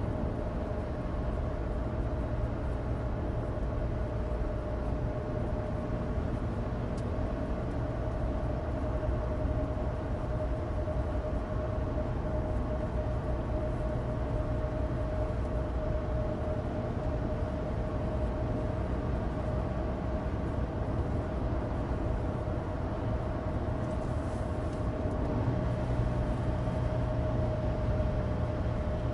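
Cabin sound of a 2016 Suzuki Alto Turbo RS (HA36S, 660 cc turbocharged three-cylinder) driving at a steady pace: an even engine drone with a held tone over a low rumble of studless winter tyres on dry road.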